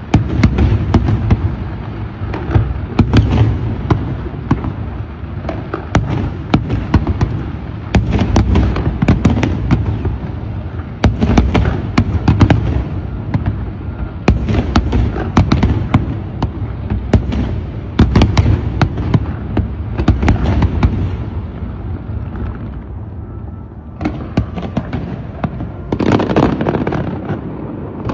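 Fireworks going off without pause: a dense run of sharp cracks and bangs over deep booms, easing briefly near the end before picking up again.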